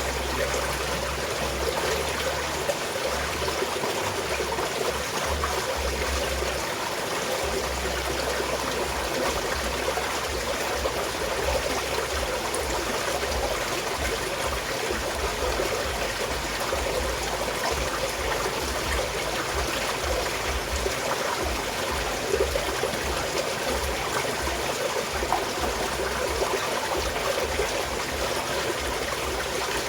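Small mountain stream flowing and trickling, a steady, even rush of water.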